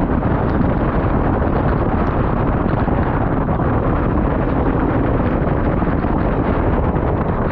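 Loud, steady wind rushing over the microphone, a dense low rumble.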